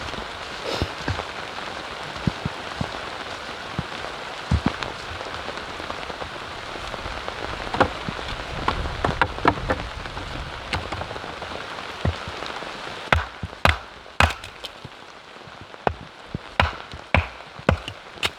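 Steady rain with many sharp drops tapping on a surface close by. About two thirds of the way in the rain hiss fades and a handful of louder, separate knocks stand out.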